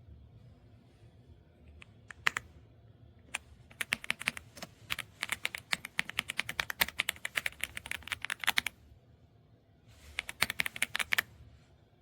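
Typing on an EPOMAKER x Aula F75 gasket-mount mechanical keyboard: a few single keystrokes, then a fast run of keystrokes lasting about five seconds, a pause, and a shorter burst of about a second near the end.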